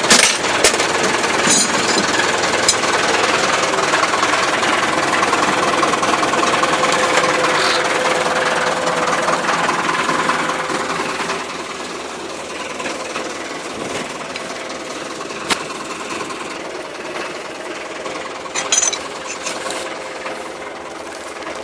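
Massey Ferguson tractor running under load with a dense, steady clattering rattle; it gets quieter about halfway through and carries on at a lower level, with a few sharp clicks near the end.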